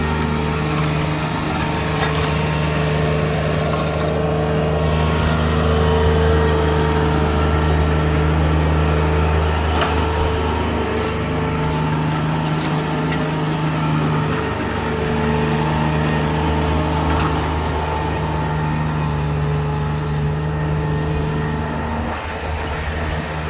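Engine of earth-moving equipment grading the lot, running steadily with a deep hum that shifts pitch briefly a couple of times.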